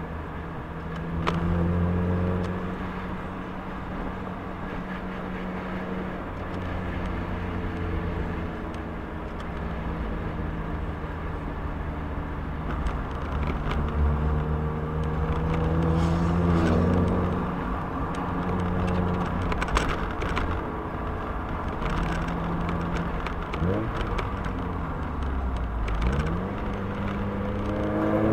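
Mazda MX-5's four-cylinder engine driving a winding road, heard from inside the car, its note stepping up and down with gear changes and throttle and rising near the end as it accelerates, over steady road and wind noise.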